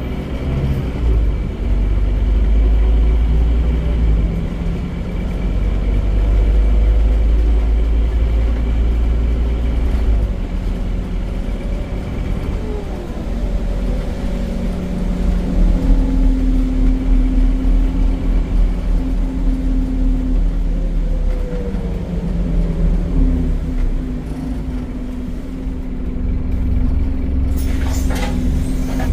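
Scania DC9 9.3-litre five-cylinder diesel of a Scania Omnicity bus running under way, its pitch rising and falling as the ZF automatic gearbox changes gear. Near the end comes a short burst of air hiss.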